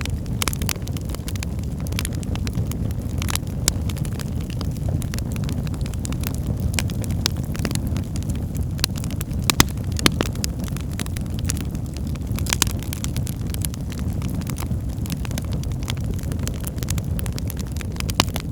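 Wood fire burning in a fireplace: a steady low rumble of the flames with irregular sharp crackles and pops, a few louder snaps about halfway through.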